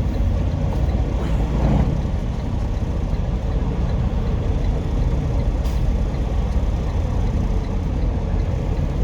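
Semi truck's diesel engine running at low speed, heard from inside the cab as a steady low rumble while the truck is manoeuvred into a parking spot. A faint click comes about five and a half seconds in.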